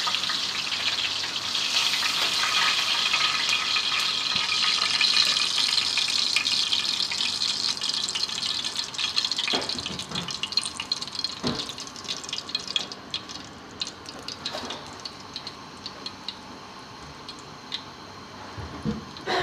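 Chicken frying in hot oil, a steady sizzle full of crackle that dies down after about ten seconds to scattered pops and clicks.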